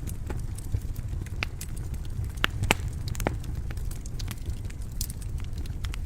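Wood fire burning in a stone fireplace: a steady low rumble of flame with irregular sharp crackles and pops, a few louder snaps in the middle.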